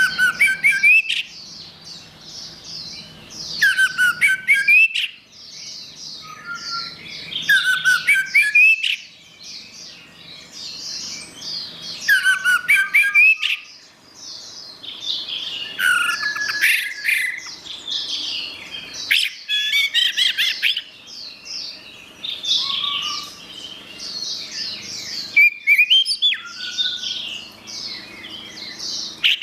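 Orange-headed thrush singing: loud, varied phrases of sliding whistled notes mixed with quick, sharp chattering, a louder burst every four seconds or so, with softer warbling in between.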